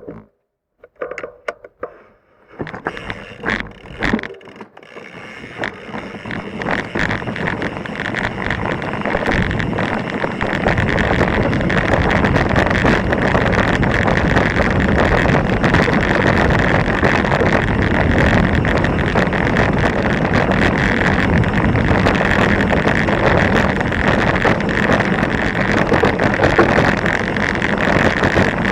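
Mountain bike riding down a rocky, loose trail, heard through an action camera: the bike rattles over the rocks and wind buffets the microphone. A few sharp clicks and knocks come in the first seconds, then the noise builds into a steady loud rush from about six seconds in.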